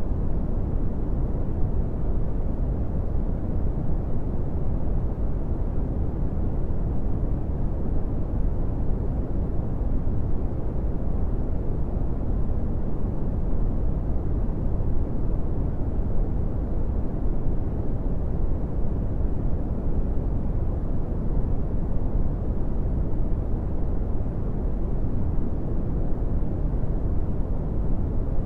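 Steady brown noise: an even, deep rumbling hiss with most of its weight in the low end and little above the midrange, unchanging throughout.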